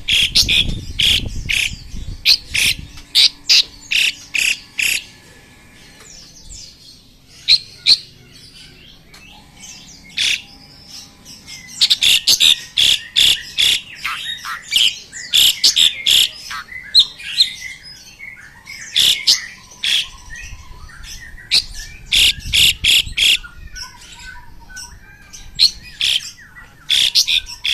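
An Asian pied starling and a white-rumped shama calling and singing against each other in loud, sharp repeated notes in quick bursts. There is a quieter lull of several seconds about a fifth of the way in, then dense calling again.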